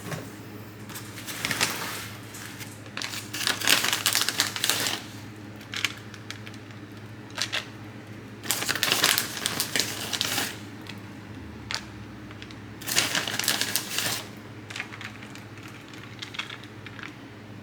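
Several irregular bursts of crinkling and clicking handling noise, the longest a couple of seconds each, over a steady low hum.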